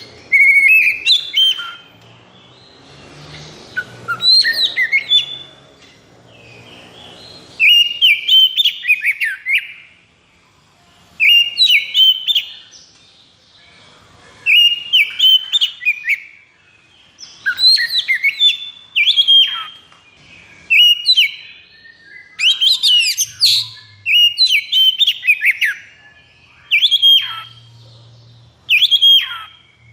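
Oriental magpie-robin (kacer) singing: loud phrases of quick whistles, trills and chattering notes, each a second or two long, repeated every few seconds.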